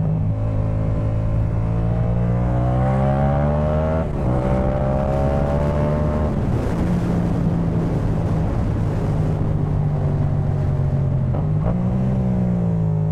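Yamaha MT-07's parallel-twin engine through a Jeskap K4 full aftermarket exhaust, pulling up through the revs under acceleration. About four seconds in there is a gear change, then it pulls again and settles to steadier running with wind rush. A short rise and fall in revs comes near the end.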